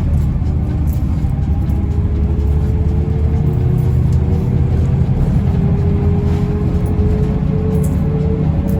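Mercedes-Benz O405N2 city bus under way, heard from inside the cabin: a steady low engine and road rumble, with a faint whine that slowly rises in pitch as the bus gathers speed.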